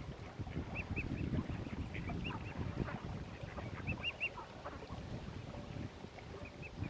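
Waterbirds calling: short, high chirping calls in quick runs of two or three, repeated several times, over a steady low rumble.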